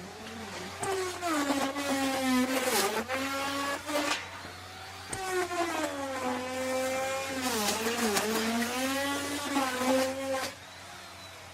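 Electric wood router running and cutting wood, its motor pitch dipping and recovering several times under load. It falls quieter near the end.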